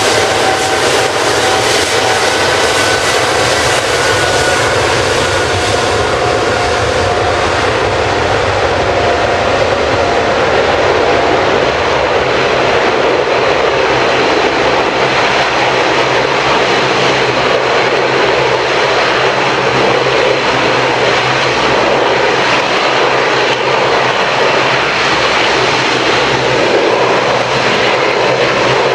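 Steady loud roar of an airliner's jet engines during takeoff, with a faint whine at first that fades after several seconds.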